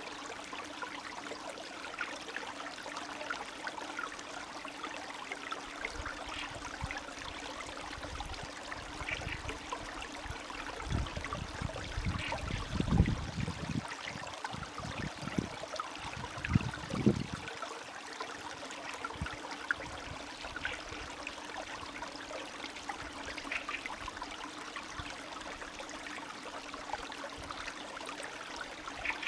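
Spring stream trickling and gurgling steadily. A run of low thuds comes in the middle, loudest about halfway through and again a few seconds later.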